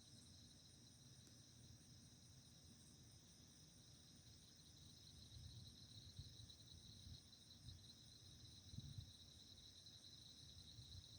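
Faint chorus of crickets and other insects trilling steadily, with a faint low rumble underneath that swells about halfway through.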